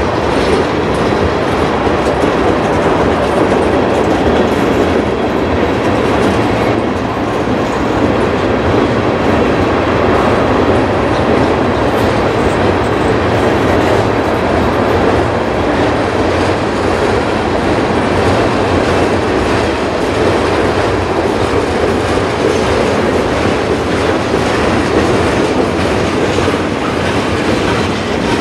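Boxcars and tank cars of a long mixed freight train rolling past: a steady noise of steel wheels running on the rails.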